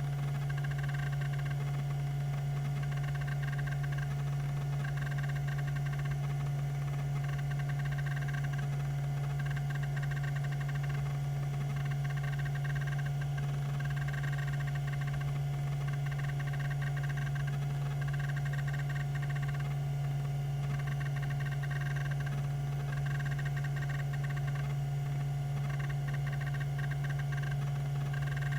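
Tandon TM362 20 MB MFM hard drive running: a steady spindle hum with a faint high tone, and short bursts of head-seek noise from its rack-and-pinion stepper actuator about every two seconds.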